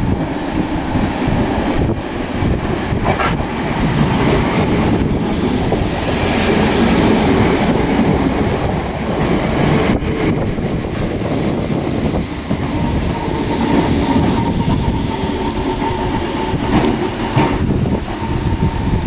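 Class 313 electric multiple unit train running along the platform, with a brief high wheel squeal about halfway through.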